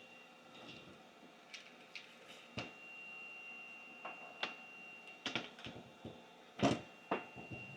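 Scattered light clicks and taps of small metal tools on a PlayStation 5 mainboard while the HDMI port is being removed, with the loudest tap near the end. A faint steady high-pitched tone comes and goes in the background.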